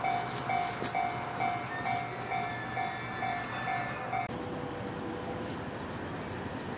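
JR Kyushu 811 series electric train passing, its wheels clattering over rail joints, while an electronic level-crossing alarm rings a two-note tone a little over twice a second. About four seconds in this cuts off abruptly to a steady, even hum.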